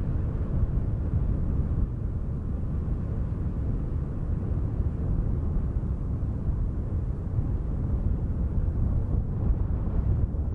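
Wind buffeting a microphone: a deep, steady rumble without distinct events, from an added wind-noise ambience track.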